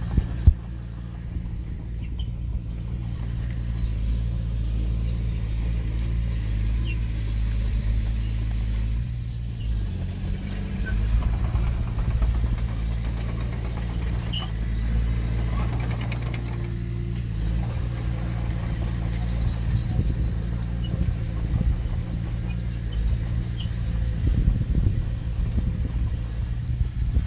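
Heavy-equipment diesel engine running steadily, with a few brief metallic clinks.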